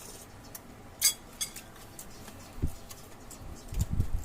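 Cutlery clinking against a plate in short sharp clicks, the loudest about a second in, with a few low thuds near the end.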